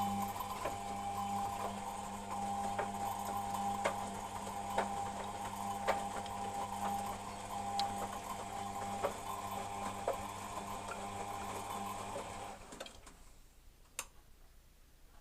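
Beko WMP 601 W washing machine's motor turning the drum during the wash: a steady hum with a sharp click about once a second, which stops suddenly about twelve seconds in. The owner hears a slight grinding from the machine when the drum turns, though not on spin.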